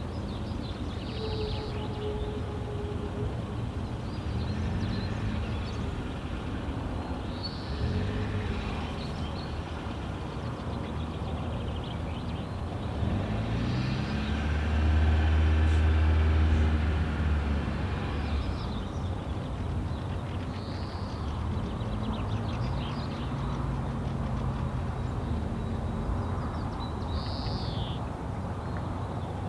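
Steady low engine rumble of motor traffic, swelling as a vehicle passes about halfway through. Five short, high bird calls come every several seconds.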